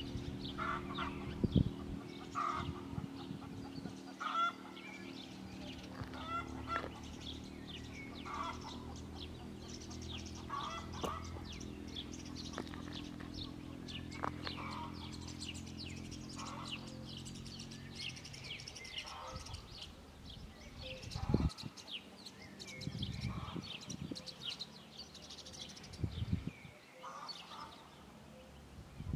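Birds calling in short repeated notes, over a steady low hum that stops about two-thirds of the way through; a few low thumps near the end.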